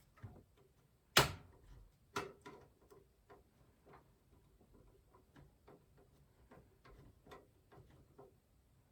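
Irregular clicks and taps of plastic and metal computer parts being handled while a graphics card is fitted into a PC case, with one sharper knock about a second in.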